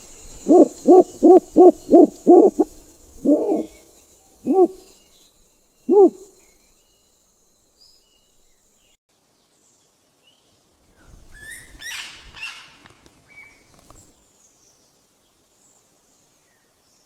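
A bird's call of low, pitched hoots: six in quick succession, then three more spaced further and further apart. Several seconds later comes a brief, higher, rougher call.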